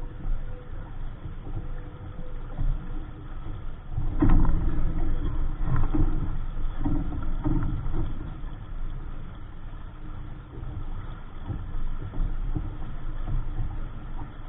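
Wind rumbling on the microphone and water rushing against a small sailboat's hull, with a louder stretch of splashes and knocks about four to eight seconds in.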